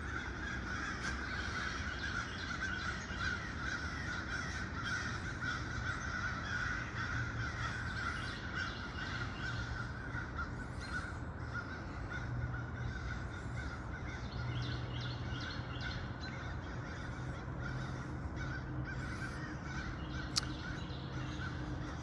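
Crows cawing repeatedly over a steady high drone of outdoor background sound, with one sharp click about twenty seconds in.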